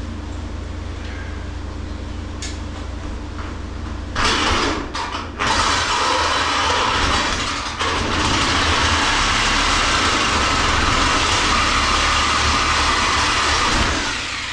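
Angle grinder cutting through a metal rail. It starts with a couple of short bursts about four seconds in, then runs as one steady cut for most of the rest, stopping shortly before the end.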